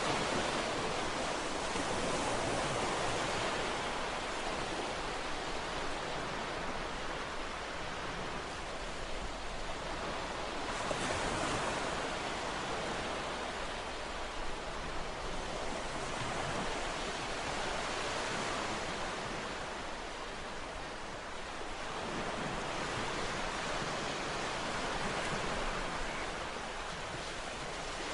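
Ocean waves breaking and washing on a shore: a continuous surf noise that swells and eases every several seconds.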